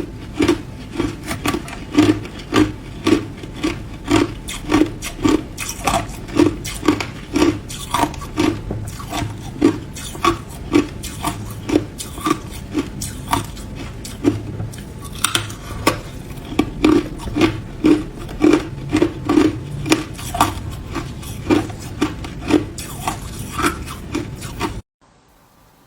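A person chewing ice, crunching in a steady rhythm of about two bites a second, stopping abruptly near the end.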